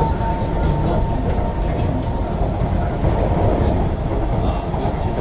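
Interior running noise of a KSF C151B metro train carriage: a steady low rumble of wheels on track, with a faint steady whine that fades in the first second.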